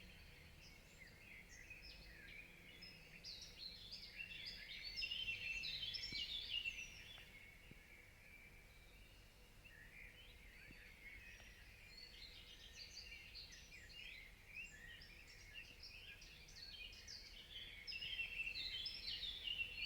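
Dawn chorus: several birds singing at once, short chirps and trills overlapping, busiest about five seconds in and again over the last several seconds, with a thinner lull in between.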